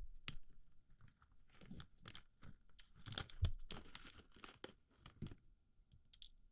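Small plastic BB pellets being packed into the ear of a binaural microphone: irregular crackling clicks and crunches, busiest in the middle and thinning out near the end.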